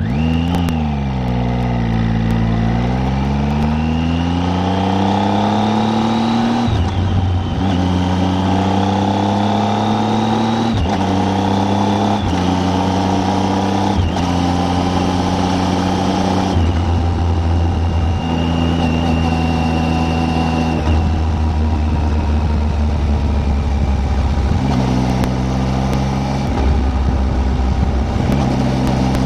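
Triumph Tiger 800's three-cylinder engine pulling away and accelerating up through the gears. The note climbs and drops back at each of several upshifts, then settles to a steadier cruise.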